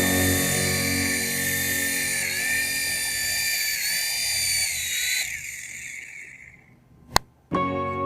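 The small electric rotor motor of a toy RC helicopter spins with a high-pitched whine. It dips slightly in pitch twice, then winds down and fades out. A single click follows, and then guitar music starts near the end.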